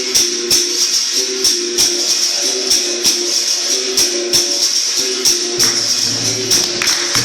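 Capoeira-style percussion music: a berimbau's struck-string notes alternating between two pitches in a steady rhythm, over a continuous shaker-and-jingle hiss typical of caxixi and pandeiro. A low steady tone joins about two thirds of the way through.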